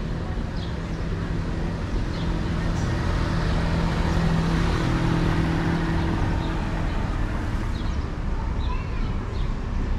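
Bernina Express train running: a steady rumble with a low motor hum that swells for a few seconds in the middle and then eases off.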